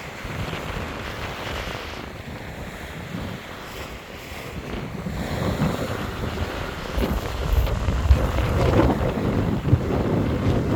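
Rough sea waves breaking on a beach while strong wind buffets the microphone. The low wind rumble grows louder through the second half.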